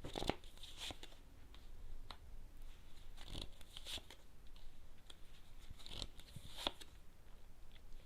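Tarot cards being shuffled and laid out: a handful of faint, brief rustles and light card slaps, spaced irregularly.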